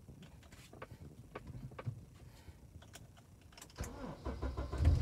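A few light clicks, then about four seconds in a Honda Accord's engine cranks and catches, the loudest moment just before the end as it settles into a steady hum.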